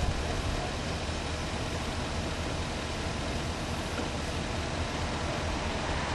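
Steady rumble and hiss of a vehicle driving, heard from inside the cab.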